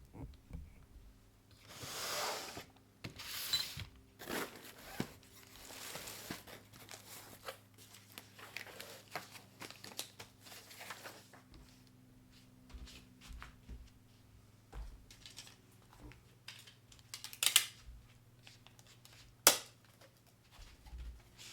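Packing material being handled for a shipping parcel, with rustling, crinkling and tearing in irregular bursts, and two sharp snaps near the end.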